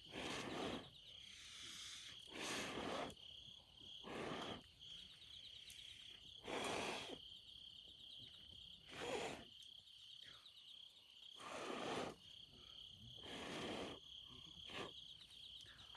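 Crickets chirping steadily. About eight short breathy whooshes, roughly every couple of seconds, are louder than the crickets.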